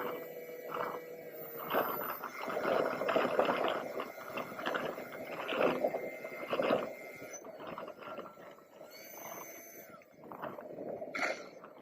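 Wind buffeting the onboard camera microphone of an RC plane in flight, coming in irregular gusts, with a faint steady whine from the plane's electric motor.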